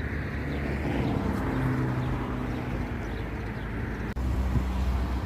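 Motorway traffic running steadily, with the hum of a passing vehicle's engine from about a second in to about three seconds.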